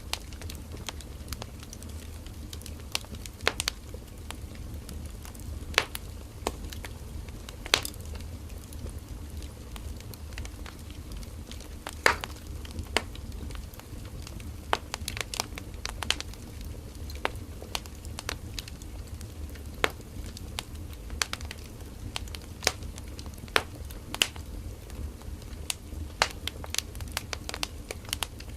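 Firewood burning in a campfire, crackling with irregular sharp pops over a low steady rumble, one pop louder than the rest about twelve seconds in.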